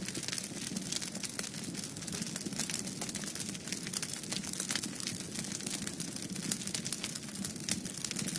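Wood fire crackling in a fireplace: dense, irregular pops and snaps over a steady low rush.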